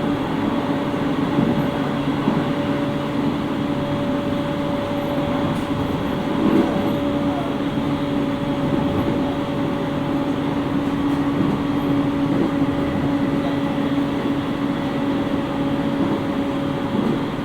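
701-series electric train running at steady speed, heard inside the motor car: steady motor hum over wheel and rail rumble, with one brief bump about six and a half seconds in. The motor hum stops near the end as the power is shut off.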